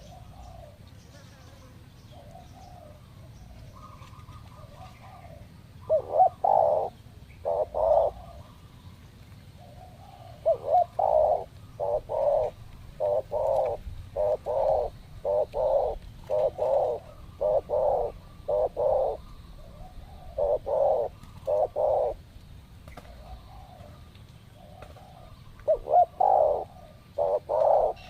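Spotted doves cooing: one dove close by gives long runs of short, evenly spaced coos, and fainter coos from another dove further off fill the gaps.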